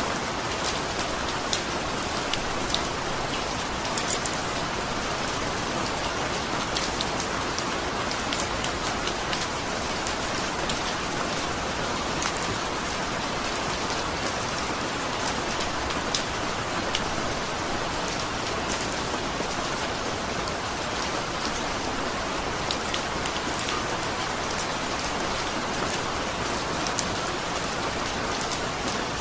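Steady rain falling, with many small drop impacts on a surface heard as scattered light ticks over the even hiss.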